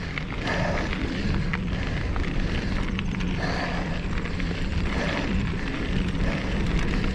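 Mountain bike rolling fast over a dirt pump-track section: steady wind rush on the camera microphone with tyre noise on dirt, and a few sharp clicks and rattles from the bike over the rollers.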